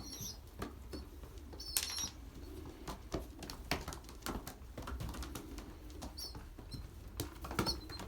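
Young racing pigeons in a loft: wings flapping and irregular scuffling clicks, with a few short, high squeaks from the squeakers.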